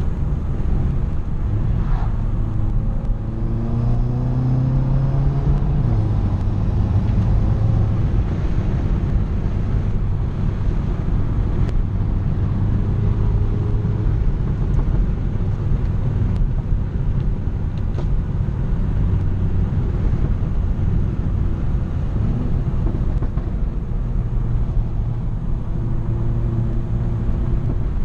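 Volkswagen GTI's turbocharged four-cylinder engine, upgraded with an IS38 turbo, accelerating with revs rising for a few seconds, then dropping back and running at a steady cruise over constant road noise.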